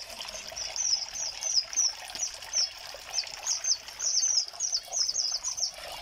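Small birds chirping, a rapid run of short high notes about three a second, over the steady trickle of water pouring into a basin.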